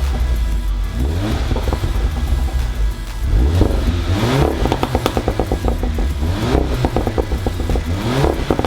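Tuned VW Golf 7 GTI's turbocharged four-cylinder engine and exhaust under hard acceleration. The note climbs in pitch, then drops at each gearchange, several times over.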